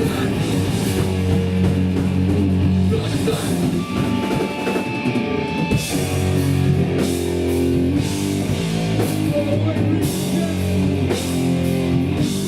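Hardcore punk band playing live: heavy electric guitar, bass and drum kit, loud and steady throughout.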